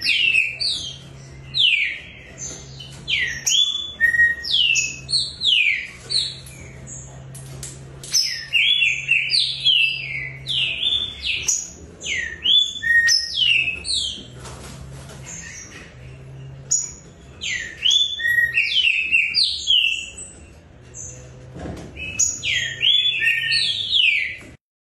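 Green-winged saltators (trinca-ferro) singing: short phrases of loud, clear whistled notes that slide quickly downward, repeated every few seconds with brief pauses between phrases.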